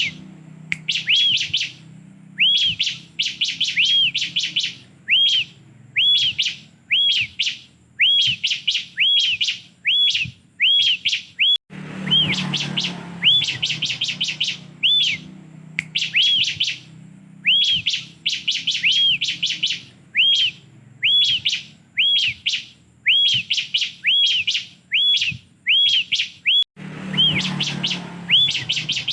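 Ciblek (prinia) calling over and over: short, high, arching chirps repeated steadily, mostly in twos and threes, over a low background hum.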